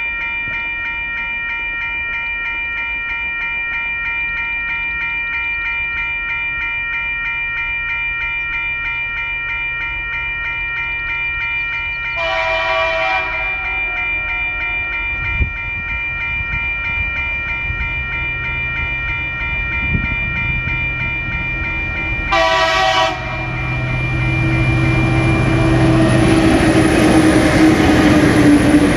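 Level crossing warning bell ringing steadily as a TasRail freight train led by diesel locomotive TR10 approaches. The horn sounds twice: a blast of about a second and a half about 12 seconds in, and a shorter one about 22 seconds in. The locomotives' engine rumble and wheel noise then build to the loudest point as the train reaches the crossing near the end.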